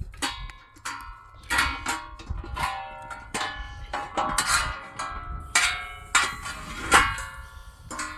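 Metal struck repeatedly with a hammer: about a dozen ringing clangs, roughly one every half second to second, the loudest near the end.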